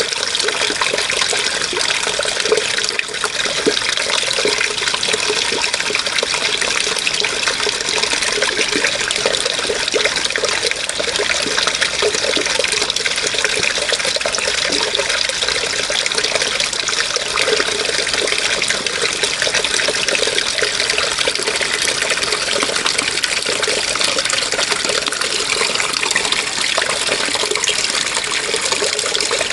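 Water flowing steadily, a continuous splashing rush without a break.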